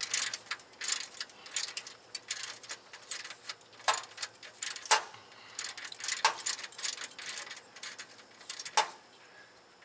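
Hand ratchet wrench clicking in irregular runs, with a few sharper metallic clinks of tools on steel, as a bolt is worked loose.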